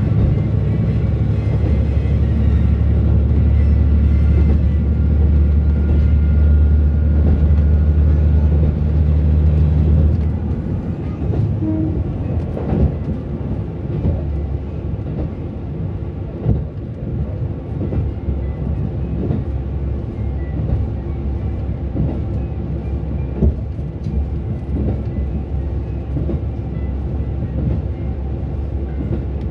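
Diesel railcar in motion, its engine running under power with a steady low drone. About a third of the way in the engine drops back and the train coasts, and the wheels clatter over the rails with scattered sharp knocks.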